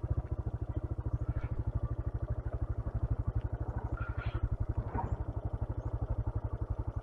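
125cc motorcycle engine running at low revs, its exhaust giving an even beat of about ten pulses a second, with a few faint clicks and rattles over it.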